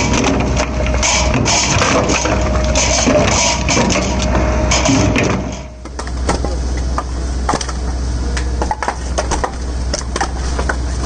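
Electric firewood splitter (F500) running: a steady low motor hum under dense crunching and cracking of wood as logs are split. About halfway through the sound dips briefly, then carries on with sharper, separate cracks.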